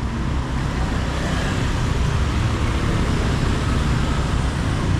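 Road traffic on a busy town street: a steady rumble of passing vehicles with no distinct single event standing out.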